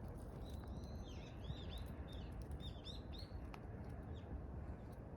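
Small birds chirping: a run of short, quick rising-and-falling chirps in the middle of the stretch, over a steady low outdoor background noise.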